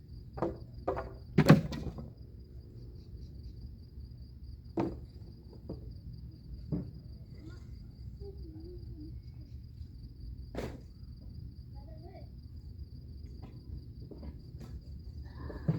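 Sharp wooden knocks and thuds, the loudest about a second and a half in, then a few more spread out, as firewood is handled and stacked for a bonfire. Throughout there is the steady high chirring of crickets.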